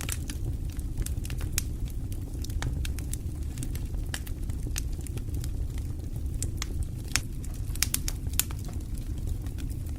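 Fire in a fireplace crackling, with irregular sharp pops over a steady low rumble; a few louder pops come close together near the end.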